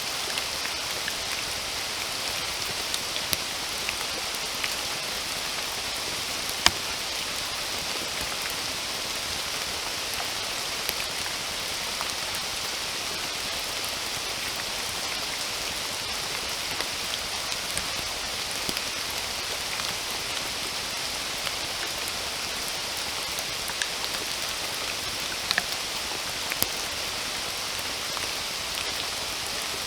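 Steady rain falling, an even hiss with scattered sharper drop ticks, one louder drop about seven seconds in.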